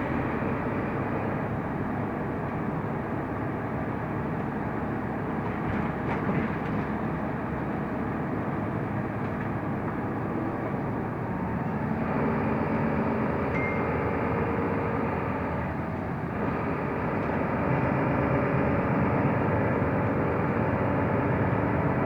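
Mercedes-Benz O345 Conecto LF city bus under way, its engine, drivetrain and road noise heard from inside the cabin as a steady rumble. It gets a little louder about halfway through and again a few seconds later.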